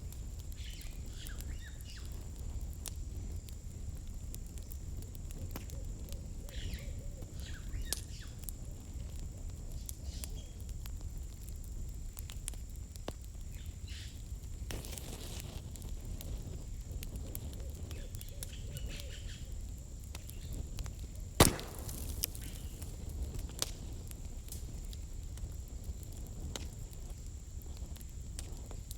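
Campfire burning firewood, crackling with scattered small pops and ticks over a low steady rumble, and one loud sharp pop about twenty seconds in. A faint steady high tone runs underneath.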